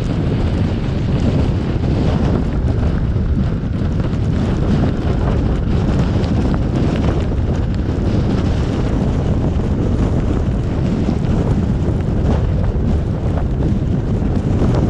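Steady, loud rumble of a car driving through a snowstorm, mixed with wind noise on the microphone.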